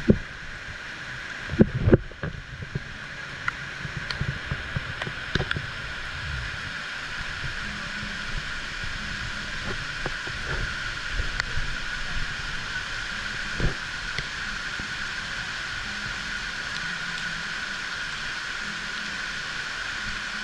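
Heavy rain falling with a steady rushing hiss. A few knocks and thumps come through in the first six seconds and once more near the middle.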